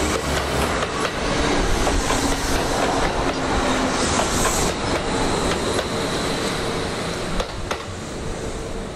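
Kintetsu electric train running along the track, a steady rumble with scattered wheel clicks, easing slightly toward the end.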